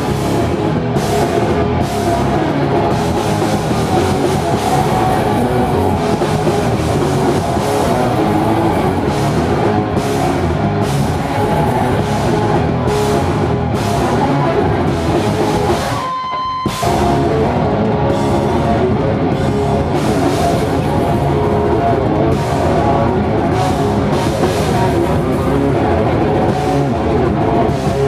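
A live experimental thrash metal band playing loudly, with distorted guitar and a pounding drum kit. The band drops out for about half a second about halfway through, then comes back in.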